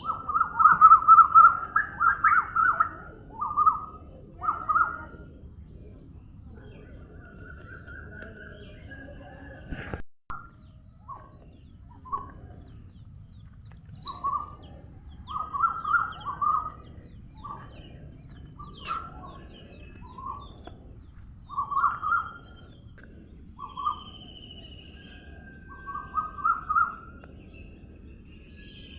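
Birds calling outdoors: short calls of a few quick notes, repeated in bursts every second or two, over thin high-pitched tones and a low background hum; the sound cuts out briefly about ten seconds in.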